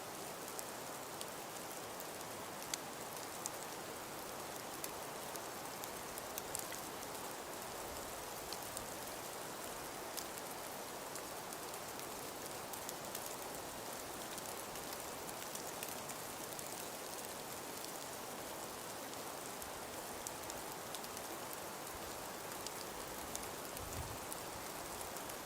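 Steady hiss of wind and falling snow, with scattered faint ticks throughout.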